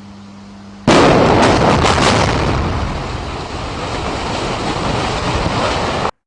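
Explosive demolition of a tower block: a rapid string of blasts about a second in, then the long rumble of the building collapsing. The sound cuts off abruptly near the end.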